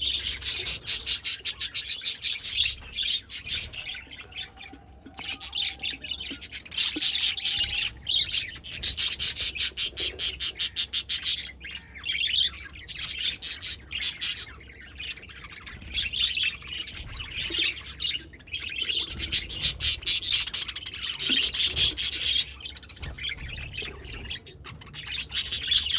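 A flock of budgerigars chattering: rapid high chirps and warbles in bursts of a second or two, with short lulls between.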